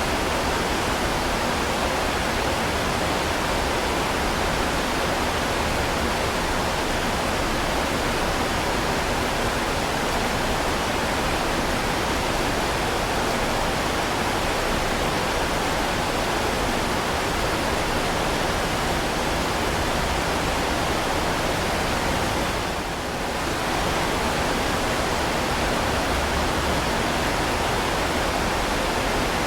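Heavy rain falling in a steady, dense hiss, with a brief dip in level about three-quarters of the way through.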